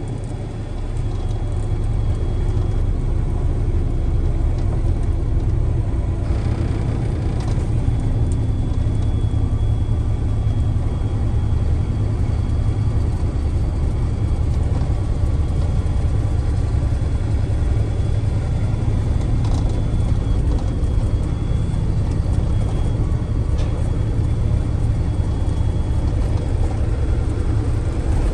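Box truck's engine running with a steady low rumble, getting a little louder about a second in.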